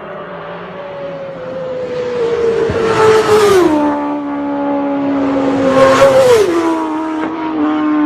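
Racing motorcycles passing at high speed, twice: each engine note peaks in loudness and then drops sharply in pitch as the bike goes by.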